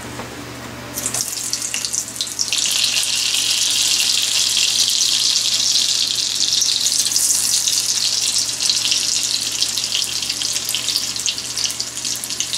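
Onion slices dropped into hot melted butter in a cast iron skillet, sizzling loudly. The sizzle starts about a second in and swells quickly, then keeps on as a steady hiss.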